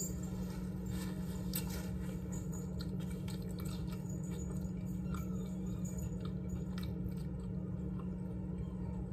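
Close-up chewing and biting of a chicken breast sandwich on a soft Hawaiian roll, with small scattered mouth clicks, over a steady low hum.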